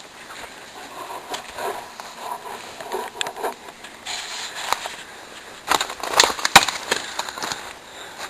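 Footsteps pushing through dry brush and undergrowth: irregular rustling and crunching with sharp snaps of twigs, the loudest snaps coming in a cluster a little past the middle.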